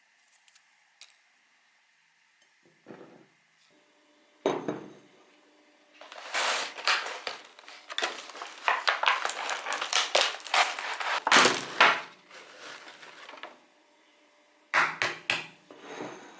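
Breakfast preparation: dishes and cutlery clinking and being handled, with a sharp knock about four seconds in, then a long stretch of dense, rapid crackling clatter and another short burst near the end.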